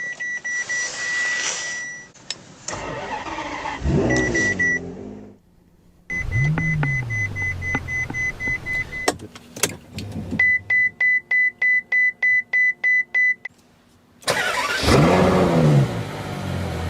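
Ferrari V12 engines started one after another: each time the starter cranks and the engine catches with a quick rev that rises and falls back to idle. Between the start-ups the dashboard chime sounds, a steady high tone, and midway it changes to a run of regular beeps, about three a second.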